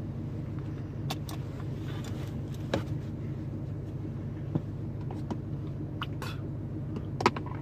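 Pickup truck engine idling with a steady low hum, with scattered light clicks and knocks on top; the sharpest knock comes near the end.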